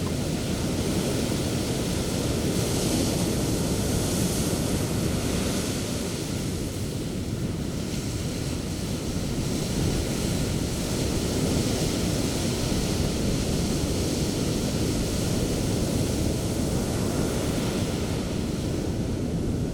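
Sea surf breaking and washing up a beach: a continuous rush of waves that swells a few seconds in and again about halfway through.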